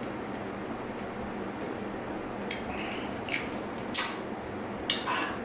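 Close-up wet mouth sounds of a person eating soft dragon fruit: a few short squishy smacks and chews over a steady background hiss, the sharpest about four seconds in.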